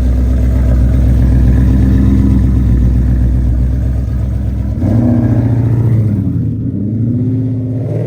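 Built 5.0 V8 engine running loud and steady, then revved several times from about five seconds in, its pitch rising and falling with each rev.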